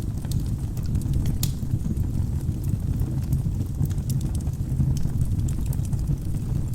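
Wood fire burning in a fireplace: a steady low rumble of flames with frequent sharp crackles and pops, one louder pop about a second and a half in.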